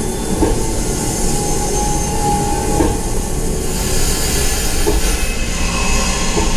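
Hogwarts Express ride train running on its rails: a steady low rumble with occasional clacks, a brief wheel squeal about two to three seconds in, and a hiss that rises from about four seconds in.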